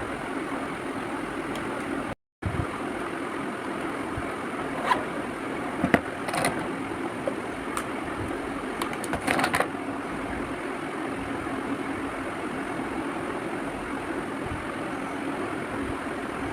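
Steady background hum and hiss, cut off briefly about two seconds in, with a few light clicks and taps around the middle.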